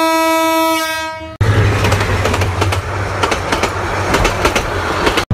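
Train horn holding one steady note that cuts off about a second and a half in, followed by a train running with wheels clattering over the rail joints in a quick, irregular run of clicks.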